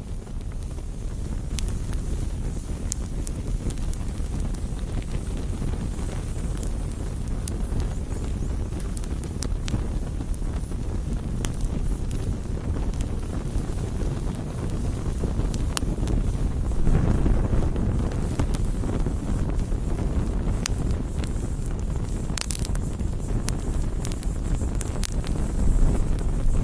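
Campfire burning: wood crackling with sharp snaps and pops scattered irregularly over a steady low rumble of the flames, which swells a little past halfway.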